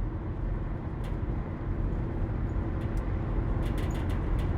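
Steady low rumble of road and engine noise from a car being driven.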